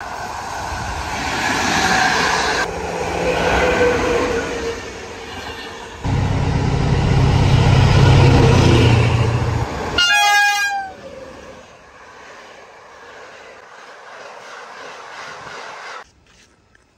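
Trains in quick cuts. First a passing electric locomotive hauling coaches. Then the diesel engine of an SM42 shunting locomotive running loudly with a deep steady hum. A brief train horn blast comes about ten seconds in, followed by a quieter rail rumble that cuts off near the end.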